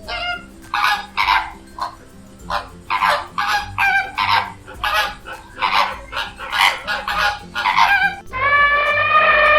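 Geese honking: a fast run of short, harsh honks, about two to three a second. Near the end a single long, steady high-pitched call takes over.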